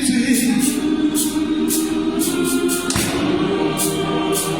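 Gospel choir singing in parts, the voices holding long sustained notes and moving to a new chord about three seconds in.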